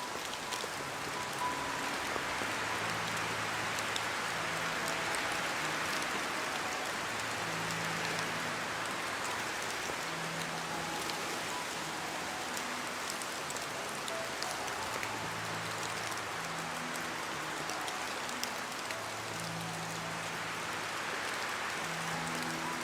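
Steady rain falling, an even hiss with scattered small drop ticks, under faint soft music of slow held low notes.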